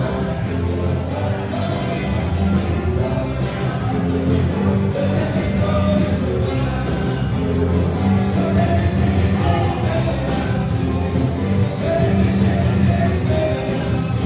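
A rock band playing live at full volume, with a steady drumbeat, bass and guitar and a voice singing.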